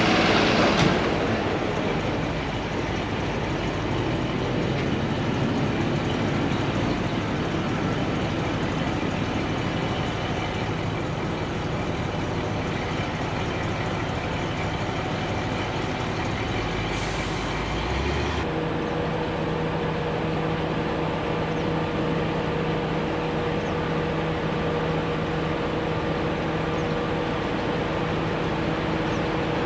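Truck engine running as the truck pulls forward. A little over halfway through, the sound changes abruptly to a steadier engine hum with a low, even tone.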